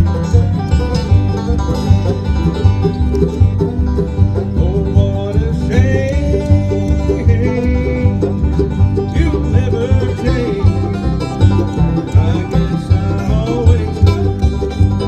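Bluegrass band playing, with banjo and guitar over a bass line that alternates steadily between two low notes, and a sliding lead melody above.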